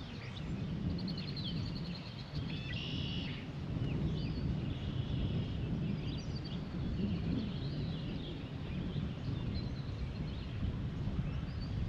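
Outdoor ambience on the water: several birds chirping and calling, with a short trill about a second in, over a steady low rumble.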